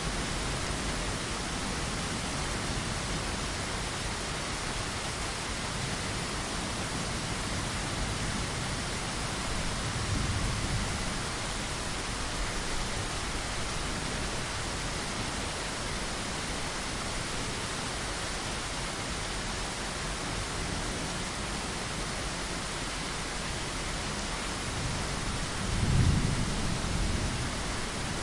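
Steady rain falling against a window, with a low rumble of thunder about ten seconds in and a louder one near the end.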